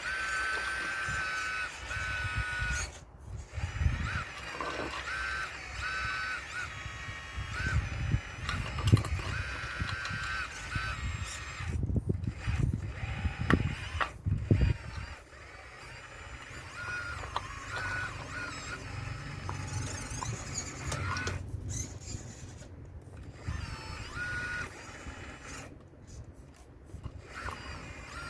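RC Caterpillar excavator model working: the whine of its electric motors starting and stopping in short spells as the arm and bucket move, with low rumbling and sharp knocks of stones being scraped and knocked loose from an old stone wall. The loudest knocks come about 9 seconds in and again between 12 and 14 seconds.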